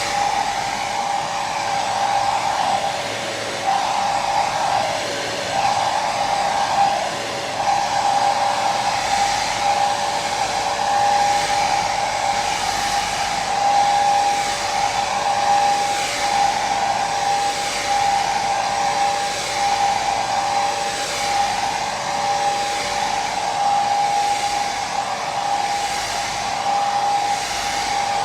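Hair dryer running continuously, a steady rush of air with a motor whine held at one pitch, the airflow wavering slowly every second or two.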